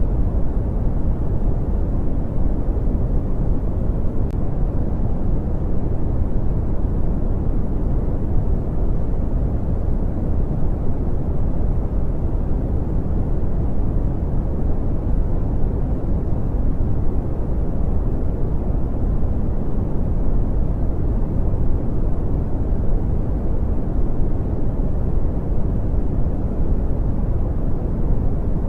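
Steady brown noise: a constant deep, rumbling hiss, strongest in the bass and falling off toward the treble, with no changes.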